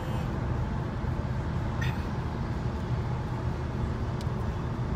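Steady low rumble of road vehicle noise, like a car running.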